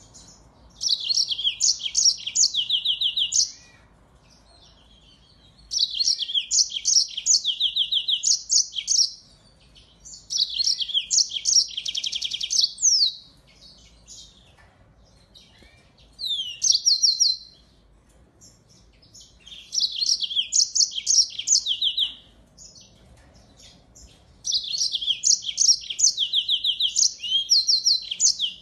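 Finch singing in repeated bursts of fast, high trills and twitters, six phrases of one to three seconds each separated by short pauses.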